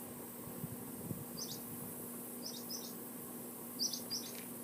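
Small birds chirping in the background: short, high chirps, several of them in quick pairs, over a faint steady hum.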